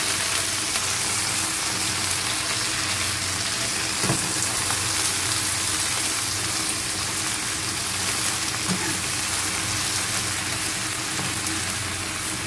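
Water spinach frying in hot oil in a pan with sausage and garlic: a steady sizzle as a metal spatula stirs the leaves, with a couple of light knocks.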